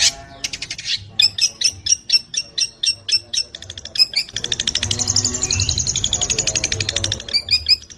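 Long-tailed shrike (cendet) singing: a run of sharp repeated notes, about four a second, then about four seconds in a fast, high, chattering trill lasting some three seconds.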